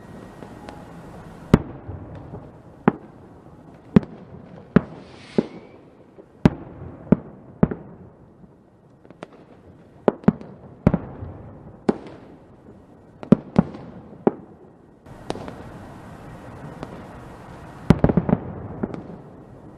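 Fireworks going off: a string of sharp bangs at irregular intervals, roughly one every second, over a steady hiss. A rising whistle-like hiss comes about five seconds in, and a quick cluster of crackling bangs comes near the end.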